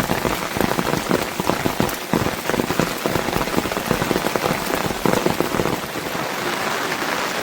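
Steady rain falling, with a dense patter of drops striking a surface close by.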